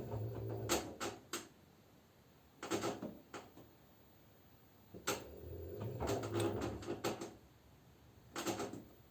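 LG F10B9LD front-loading washing machine drum turning in short bursts: a low motor hum with the laundry thudding and clunking inside, broken by pauses of about a second. This is the drum redistributing the load at the start of the spin cycle.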